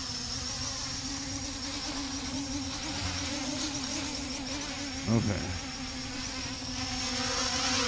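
CG035 quadcopter drone's motors and propellers buzzing steadily, running under GPS-mode auto takeoff.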